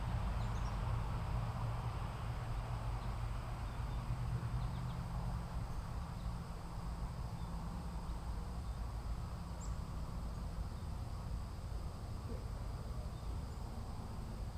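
Steady outdoor background noise: a low rumble and hiss, with a faint high steady tone and a few faint short chirps.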